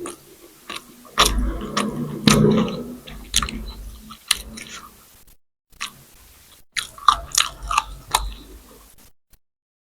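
Close-miked eating sounds: a person biting and chewing food with sharp, crisp clicks and crunches, in two spells with a brief pause about five and a half seconds in.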